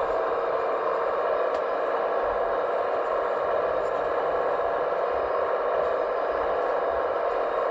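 Steady mechanical whir of radio-controlled scale construction machinery running, with a few faint light ticks.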